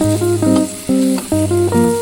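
Background music: an acoustic guitar playing plucked, strummed chords in a steady rhythm, with the chord changing about twice a second.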